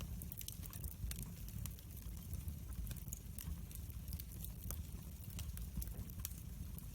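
Wood fire burning in a fireplace, crackling with many small irregular pops over a low steady rumble of the flames.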